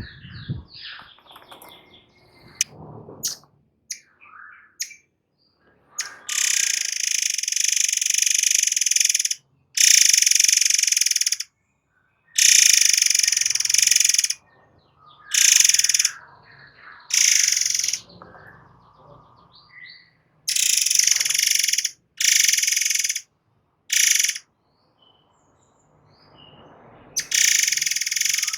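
Murai air singing in dense, rapid 'nembak' bursts: about nine loud, high-pitched buzzing runs of half a second to three seconds, each starting and stopping abruptly, with faint chirps between them.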